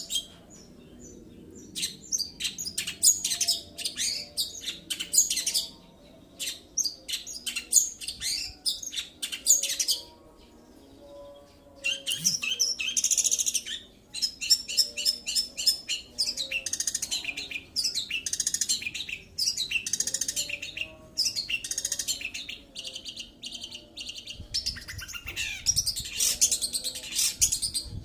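Long-tailed shrike (cendet) singing a fast, varied, chattering song of high notes in long runs, broken by short pauses, with a gap of about two seconds a third of the way through.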